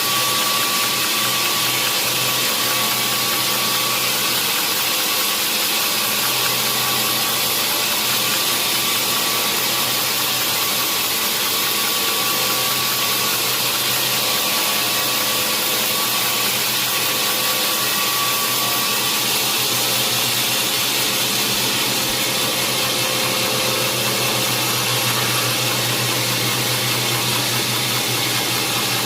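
Sawmill machinery running steadily: a constant engine drone under a loud, even hiss, with a faint whine that fades out about two-thirds of the way through.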